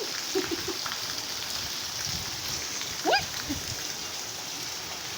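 Steady rain falling. A few short low blips come about half a second in, and a loud, brief rising cry about three seconds in.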